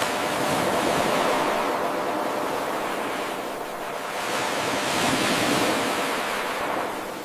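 Ocean waves washing in, a steady hiss of surf that swells twice and ebbs. It is an eight-second wave recording played on a loop, so the level jumps back up abruptly at the start where the loop restarts.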